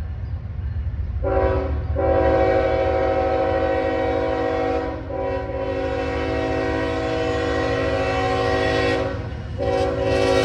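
Freight locomotive air horn sounding in a series of long blasts with short breaks between them, over the low rumble of the train.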